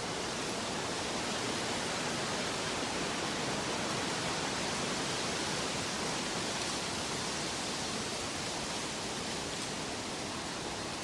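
A steady, even rushing hiss with no tune or rhythm, like white or pink noise.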